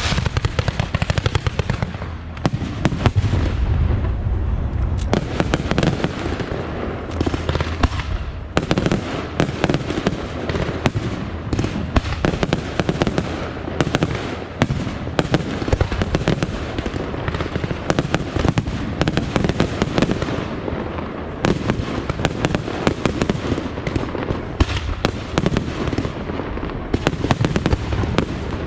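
Aerial fireworks display: a dense, unbroken barrage of shell bursts and crackle, with deep booms underneath.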